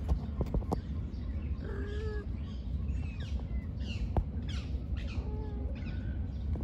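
Wild birds chirping: quick, high notes that fall sharply in pitch, clustered through the middle, over a steady low outdoor rumble. A few short clicks sound near the start and again about four seconds in.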